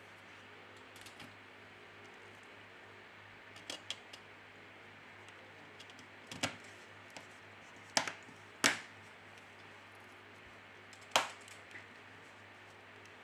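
Scattered sharp clicks and taps of small smartphone parts and tools being handled and pressed into place during reassembly, about half a dozen, the loudest in the second half, over a faint steady hum.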